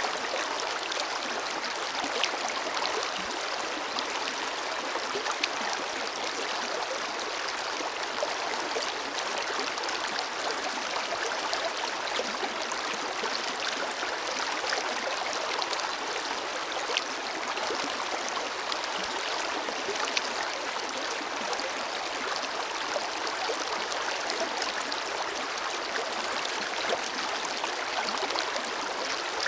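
A forest river's water flowing and splashing over rocks, a steady rushing hiss with small droplet splashes scattered through it.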